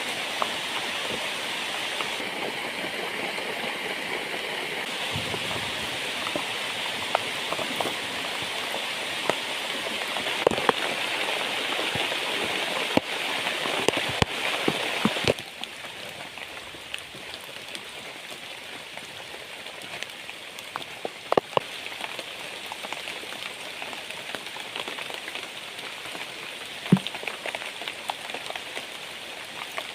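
Heavy rain falling steadily, with scattered sharp taps of drops striking close by. About halfway through, the rain drops suddenly to a quieter level.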